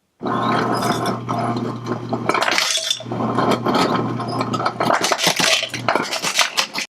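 Ice cubes clattering into a cup from a refrigerator ice dispenser, its motor humming steadily underneath; the hum stops about a second before the end while the last cubes clink in.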